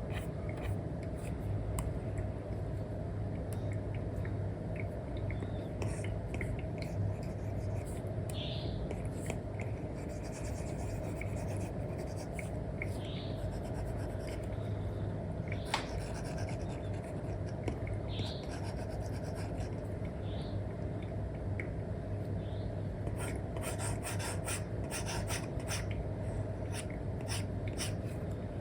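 Apple Pencil with an Elecom nib scratching and tapping on a paper-like screen film over an iPad: short drawing strokes and light taps, with a dense run of quick taps near the end, over a steady low hum.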